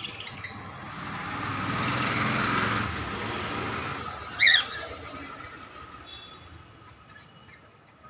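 A broad rushing noise swells for a couple of seconds and slowly fades, with a loud, sharp bird call sweeping down in pitch over a thin high whistle about four and a half seconds in, then faint high chirps from the caged birds.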